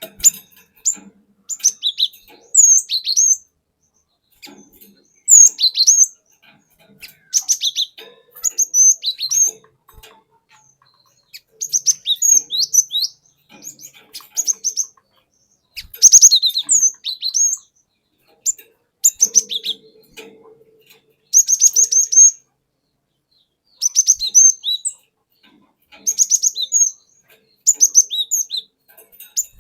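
Cinereous tit (glatik batu) singing: short bursts of sharp, high chirping notes, repeated again and again with brief pauses between phrases.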